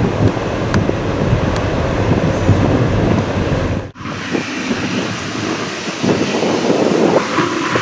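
Jet airliner engine noise with wind buffeting the microphone. The sound drops out sharply for a moment about four seconds in, then carries on with less low rumble.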